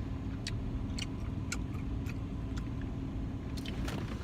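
Car engine idling: a steady low rumble with a faint hum, dotted with scattered light clicks.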